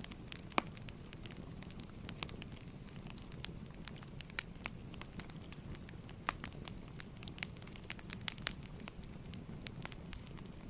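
Fireplace fire crackling: irregular sharp pops and snaps over a low, steady rumble of burning.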